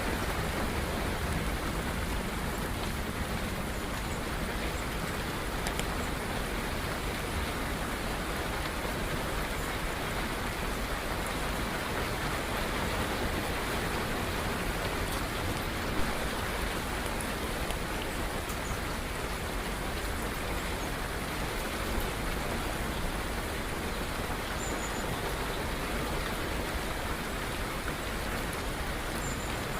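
Steady rain falling, an even unbroken hiss of water, with a few faint, brief high chirps in the second half.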